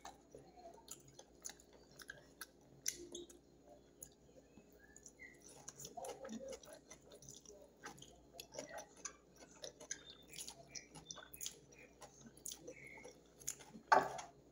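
Faint, close-up chewing and wet mouth sounds of a person eating a meal of sun-dried beef and cabbage salad with her fingers: scattered soft smacks and clicks, with one louder burst near the end.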